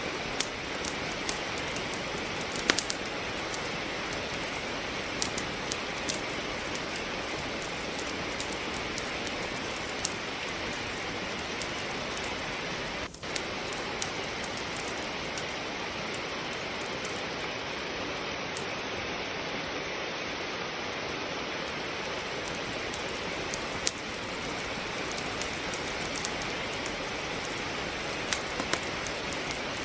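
Steady rain hiss with a wood fire crackling in a fireplace, its sharp pops scattered irregularly over the rain. The sound drops out for an instant about thirteen seconds in.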